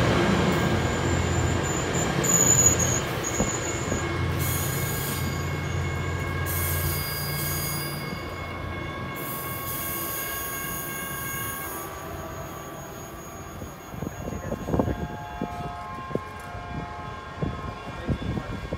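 Caltrain bilevel passenger train rolling past close by and pulling away, the rumble of its cars fading steadily over about a dozen seconds. High thin squealing tones from the wheels and bursts of hiss run through the middle as it goes.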